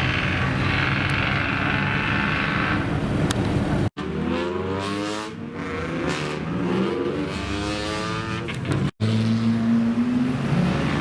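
Modified car engines and exhausts in three edited segments: first a steady run, then after a sudden cut an engine revved up and down several times, then after another cut a steady note that starts climbing in pitch as it revs near the end.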